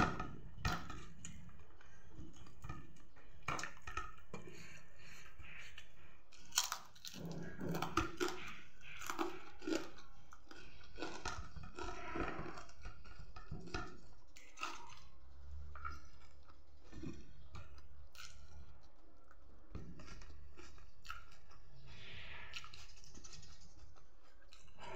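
Close-up eating sounds of a person eating by hand: chewing and occasional crunches, with frequent small clicks and smacks.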